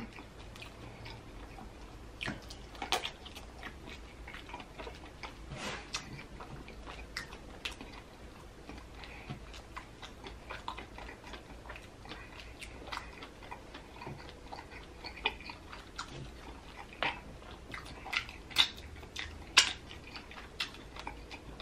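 Close-up chewing of a mouthful of sauce-dipped sausage: irregular, wet mouth clicks and smacks, a few louder ones near the end.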